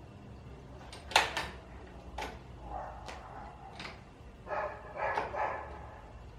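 Metal clicks and clinks of an adjustable wrench being fitted to and tried on a large suspension bolt, the loudest a sharp click about a second in. A few short, pitched squeaky sounds follow in the second half.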